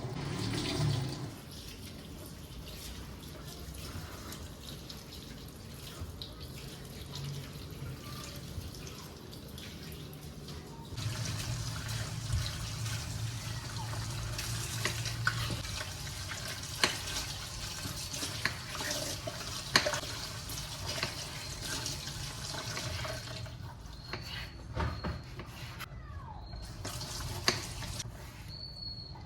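Water running from a kitchen tap into a sink, louder for a stretch in the middle, with a few sharp clinks.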